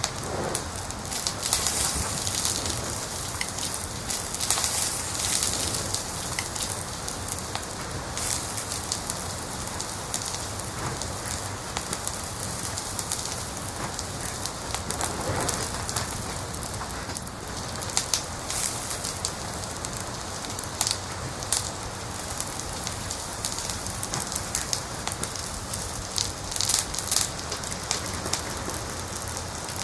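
Wood fire in a fireplace crackling: a steady hiss with frequent sharp pops and snaps, coming in denser clusters now and then.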